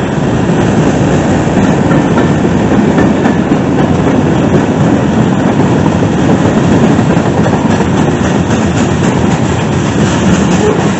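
Freight train cars rolling past close by: a loud, steady rumble of steel wheels on the rails.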